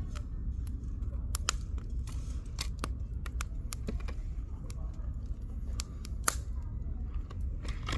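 Firewood burning in a campfire, crackling with irregular sharp pops and snaps over a steady low rumble.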